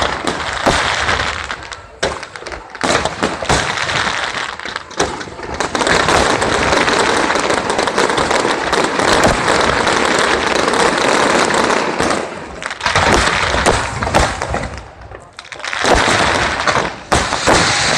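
Fireworks going off in quick succession: many sharp bangs mixed with dense crackling, thickest in the middle, with a short lull near the end before more bangs.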